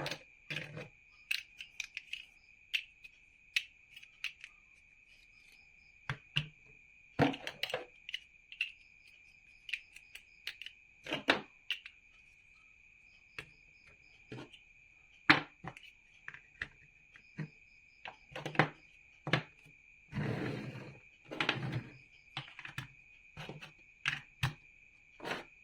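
Plastic building bricks clicking and clacking as they are handled and pressed together, in irregular single knocks with a short rattling bout near the end. Behind them runs a steady high-pitched trill.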